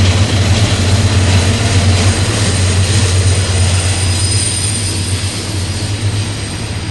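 Norfolk Southern unit trash train rolling past: a steady low diesel drone from its locomotives under a broad rush of wheels on rail as the container cars go by, slowly fading toward the end.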